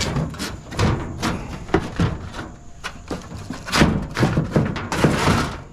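Scrap metal clanking, scraping and thudding as pieces are shoved and loaded into a truck bed: an irregular run of knocks and scrapes that stops near the end.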